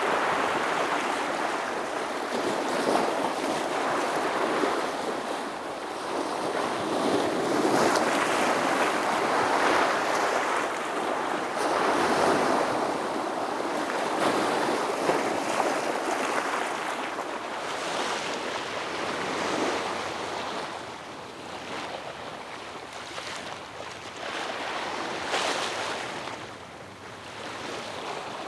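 Ocean waves breaking on a rocky shore: a continuous wash of surf that swells and falls back every few seconds.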